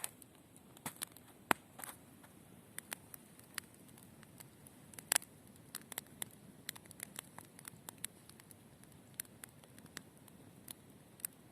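Sparse, irregular sharp clicks and crackles over a faint background, the loudest about a second and a half in and again about five seconds in.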